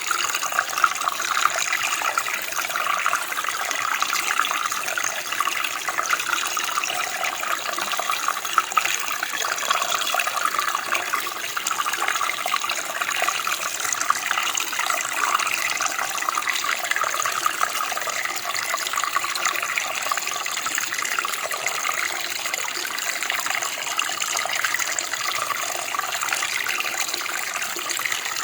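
Running water of a small stream or creek, a steady splashing and gurgling flow with no pauses.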